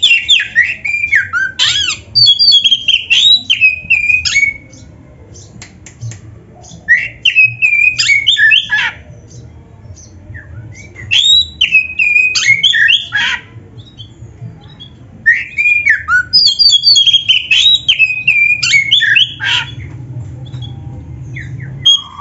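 Oriental magpie-robin (kacer) singing: loud, rapid phrases of varied gliding whistled notes, coming in bursts of a few seconds with short pauses between them.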